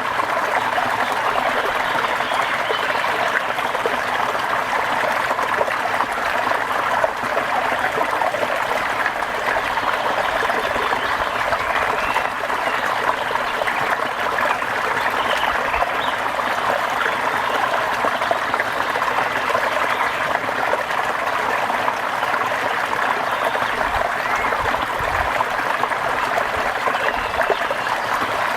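Steady rain, an even dense patter of water that doesn't let up.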